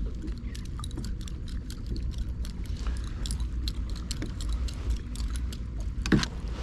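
Low wind rumble on the microphone over a run of small clicks and rattles from a kayak and its gear, with one louder knock about six seconds in.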